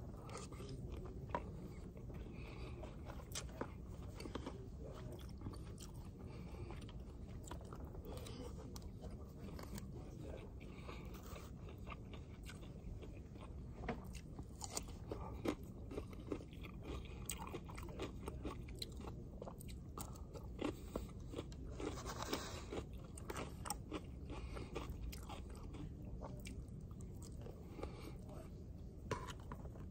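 Close-up eating sounds: chewing of rice, pork and vegetables, with scattered light clicks and scrapes of a plastic spoon and fork on the plate, over a steady low background hum.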